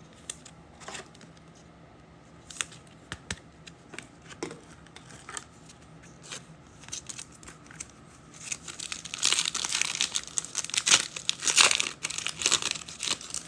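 Light clicks and taps of trading cards being handled, then, about eight seconds in, the crinkle of a foil trading-card pack wrapper being torn open and pulled off.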